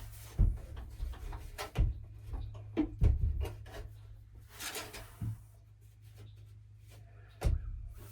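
Scattered knocks, thumps and rubbing as plumbing pipe and tools are handled and measured, over a steady low hum.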